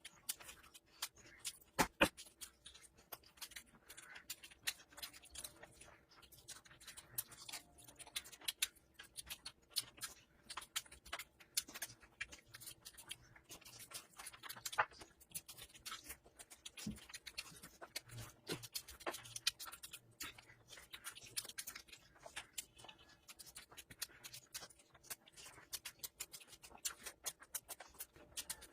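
Close-miked eating sounds from a meal of curry and rice: a steady run of quick, wet clicks and smacks of chewing and handling the food, with a few louder ones scattered through.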